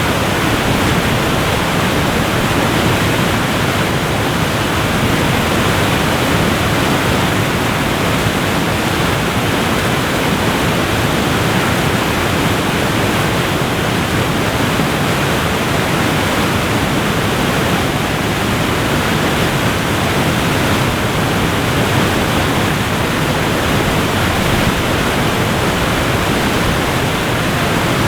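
Waterfall rushing: a loud, steady, even wash of falling water with no change or break.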